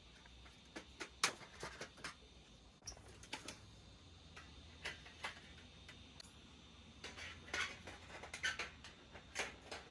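Irregular sharp clicks and snaps, a few at a time, with short gaps between them and a denser cluster near the end.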